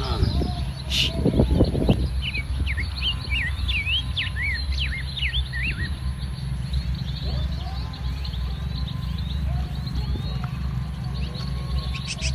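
Small birds chirping repeatedly in short, quick calls over a steady low rumble, with a louder low sound in the first two seconds.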